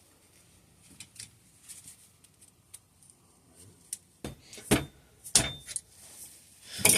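Small metal tools and brake parts clicking and clinking on a workbench during a hydraulic disc brake teardown. Three sharper knocks come a little over four seconds in, near five seconds and about five and a half seconds in.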